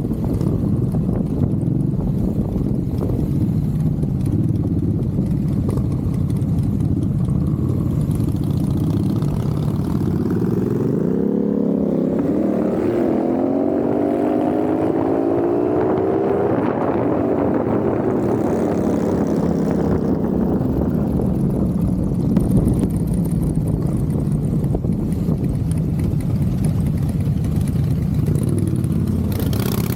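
Motorcycle engine running at road speed with steady wind rush. Around the middle an engine note climbs in pitch over a few seconds, then falls away again.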